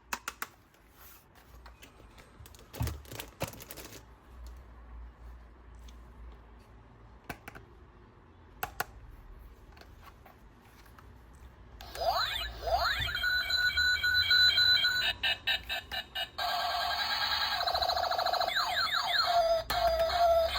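A few scattered clicks of plastic being handled, then, about twelve seconds in, a battery-powered electronic toy starts playing its sound effects: sweeping tones and rapid pulsing beeps that run on to the end.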